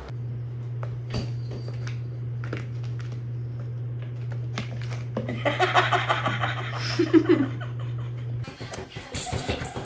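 A person laughing in short pulses over a steady low hum, with scattered light clicks.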